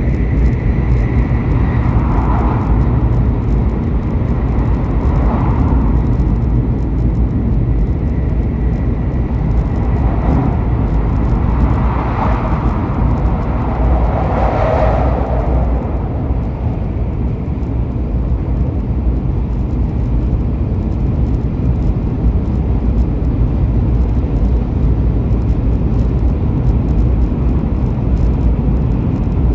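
Steady low rumble of a moving vehicle, with a few brief, softer swells of higher sound in the first half.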